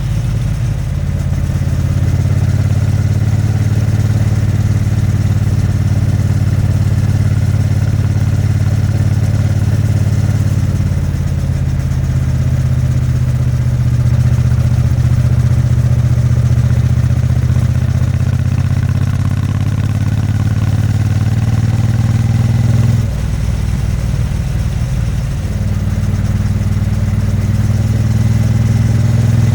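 Triumph Bonneville T100's 900 cc parallel-twin engine and exhaust running steadily while riding. About three-quarters through, the engine note drops off briefly as the throttle is eased, then builds again.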